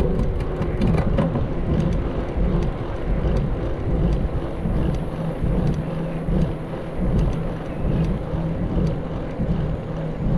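Wind buffeting the microphone of a camera on a moving mountain bike, a loud uneven rumble mixed with tyre noise and small rattles.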